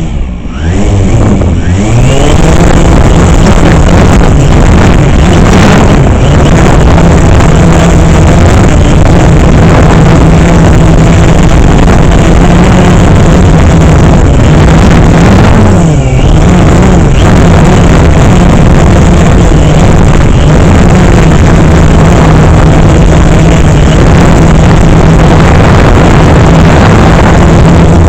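DJI Phantom 3 quadcopter's electric motors and propellers spinning up, rising in pitch over the first couple of seconds, then a loud, steady buzz as it flies. The pitch dips and wavers briefly about halfway through.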